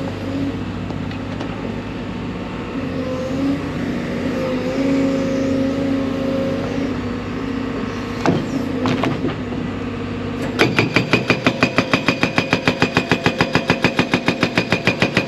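55,000 lb JCB excavator's diesel engine and hydraulics running steadily, then near the end its 4,000 lb hydraulic breaker starts hammering rock in rapid, even blows, several a second.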